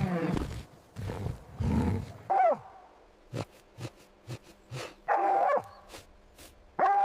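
A big cat growls in low rumbling bursts for about the first two seconds. A dog then barks three times, a few seconds apart.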